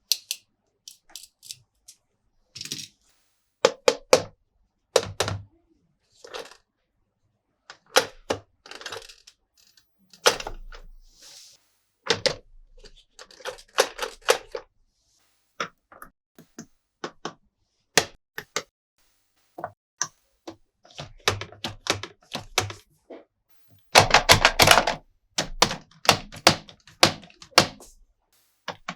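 Plastic toy trucks and playset parts being handled, giving irregular clicks, taps and knocks, with a dense run of clatter about 24 seconds in.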